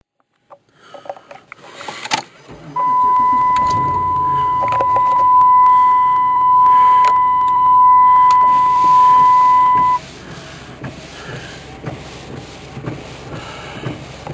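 A loud, steady electronic tone held for about seven seconds, cutting off abruptly. It comes over low rumbling and scattered handling clicks.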